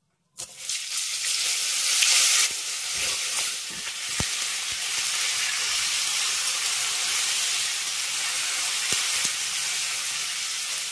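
Cauliflower florets frying in hot mustard oil in a kadai: a sizzle that starts suddenly as the florets go into the oil, loudest about two seconds in and then steady. A few faint knocks of a steel spatula stirring them.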